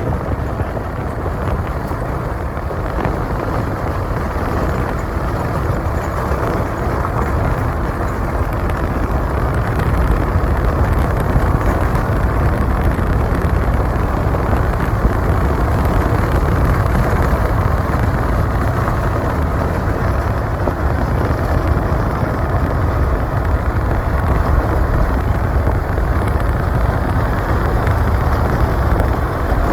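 Steady road and wind noise of a moving vehicle on the road, heavy in low rumble, growing a little louder about a third of the way in.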